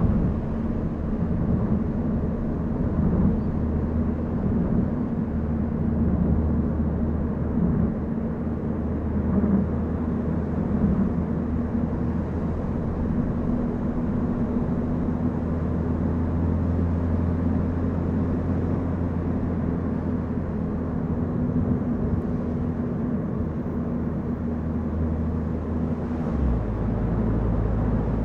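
A car engine running steadily under way, with tyre and road noise. The engine note shifts near the end.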